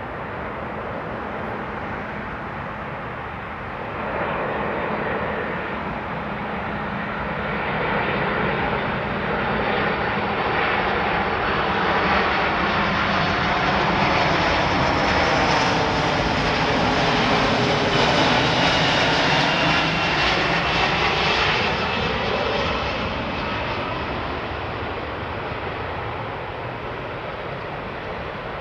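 Boeing C-17 Globemaster III's four turbofan jet engines passing by, growing louder to a peak about midway and then fading. A high whine can be heard over the jet noise and drops slightly in pitch as the aircraft goes past.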